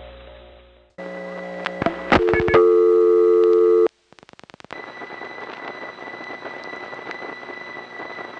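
Telephone line audio. A payphone is picked up, a few clicks follow, and a dial tone sounds for about two seconds. It stops, a quick row of dial pulses dials a single digit, and then comes the steady high whine of the Woodland Hills Crossbar 5 central office, with a faint pitter-patter of clicks from connections being made at a busy time of day.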